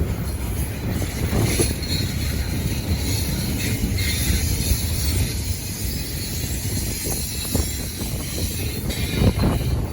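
Freight train rolling past close by: a steady, loud rumble of wheels on rail with a few sharp clacks in the last few seconds. The sound drops off suddenly at the very end.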